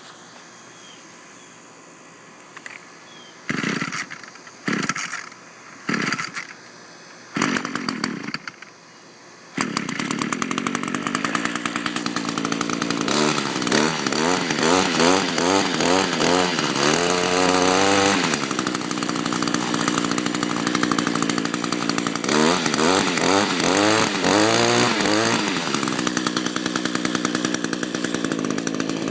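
Cold start of an Echo SRM-225 string trimmer's small two-stroke engine, not run for a week: four short bursts as it is pull-started, then it catches about ten seconds in and runs. It is revved up and down twice, dropping back between and at the end.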